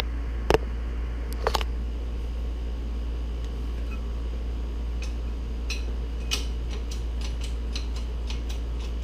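Steady low hum with a couple of sharp metal clicks near the start, then light ticks at about three a second from about five seconds in.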